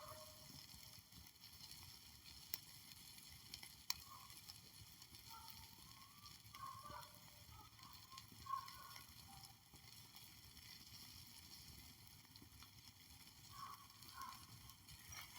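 Near silence: a faint steady hiss with a few brief clicks.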